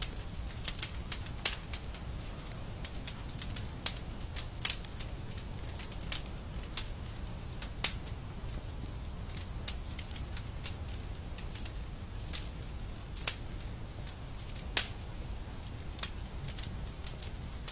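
Wood fire in a fireplace crackling: irregular sharp pops and snaps over a low, steady rumble of burning.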